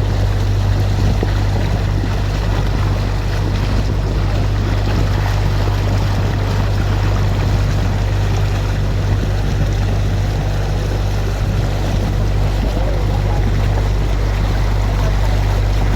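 Canal tour boat's motor running steadily with a low, even hum, under a constant rushing noise.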